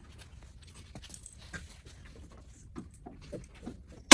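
Faint work noises under a truck: scattered light clicks and rustles as plastic trim clips and a splash guard are handled. At the very end comes one sharp, loud metallic clank with a short ring.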